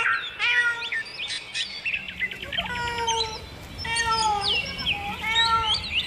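Several birds calling and chirping one after another, short pitched calls that bend up or down, with a fast trill about two seconds in.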